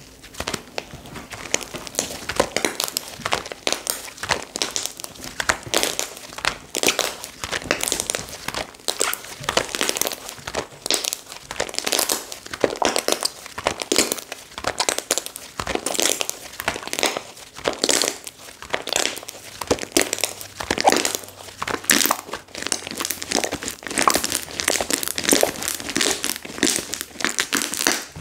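Hands playing with slime, making dense, irregular crackling and popping clicks, several a second.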